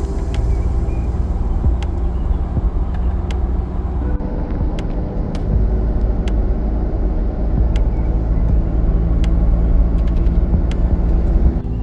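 A motor vehicle running, a steady low rumble with engine hum, with scattered sharp clicks or rattles every second or so.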